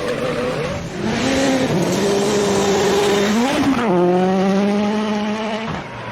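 Rally car engine running at high revs, its note held steady, with a quick rise and fall in pitch a little past halfway and a drop near the end.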